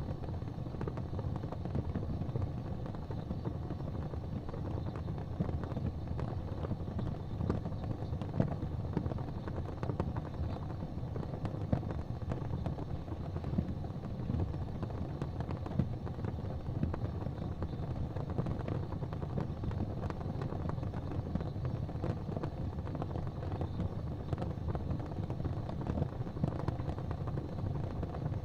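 Wood fire in a fireplace crackling with many small irregular pops over a steady low rumble of the flames.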